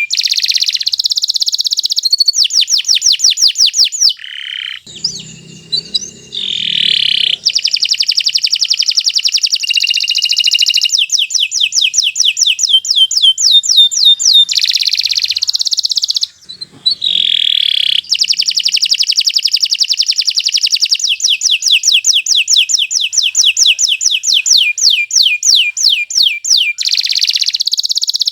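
Domestic canary singing a long, continuous song made of fast trills: runs of rapidly repeated high notes that switch to a new pattern every few seconds, with two short breaks.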